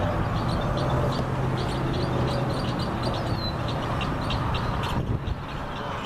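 Short high-pitched bird chirps repeating about three or four times a second, one sliding down in pitch, over a steady low rumble that weakens in the second half.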